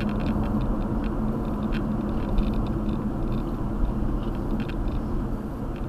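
Steady road and engine noise inside a moving car's cabin, a constant low hum with a few faint light rattles.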